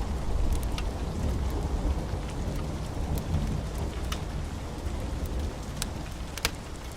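Steady rain with a low rolling thunder rumble that slowly dies away, and scattered sharp crackles from a fireplace fire.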